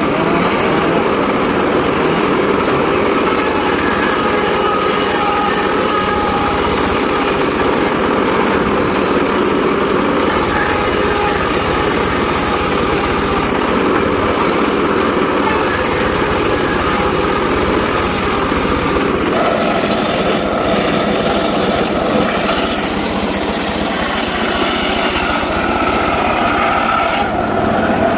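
Homemade circular saw running and cutting sengon laut (albizia) timber: a loud, steady machine noise whose tone shifts about two-thirds of the way through.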